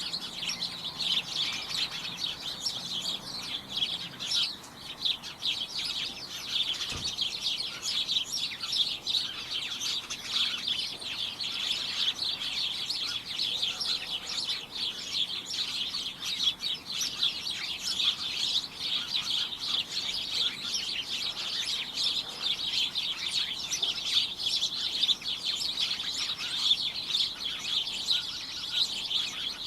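A flock of small birds chirping and tweeting continuously, many short overlapping chirps forming a dense, cacophonous chatter.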